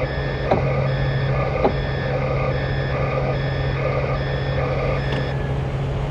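A truck's reversing alarm beeping about once a second over the steady hum of its engine, as the truck backs up; the beeping stops about a second before the end. Two short knocks sound in the first two seconds.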